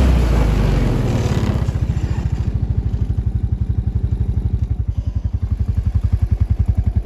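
Small vehicle engine running, then settling about a second and a half in to a steady, pulsing idle.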